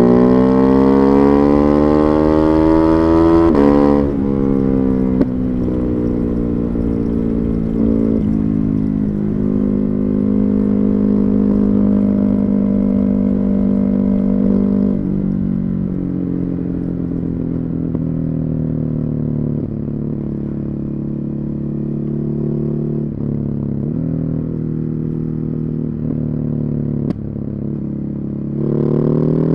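Ducati Hypermotard 950's Testastretta 11° L-twin with Termignoni exhaust, climbing in revs for about four seconds. It then drops sharply as the throttle is eased or a gear changes, and runs at a fairly steady engine speed with small rises and falls. Near the end it picks up again.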